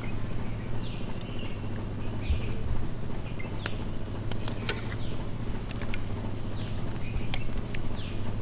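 Outdoor ambience: a bird repeats a short, high, falling chirp about once a second, over a steady high insect drone and a low hum, with a few sharp clicks.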